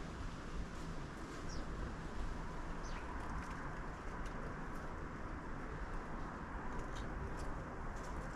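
Sparrows giving a few short, faint, high chirps, one of them falling in pitch, over a steady low background rumble.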